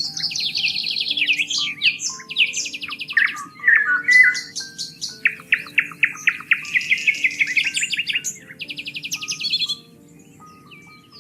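Several songbirds singing together in fast trills and chirps that overlap densely, over soft, held background music notes. The birdsong thins out near the end.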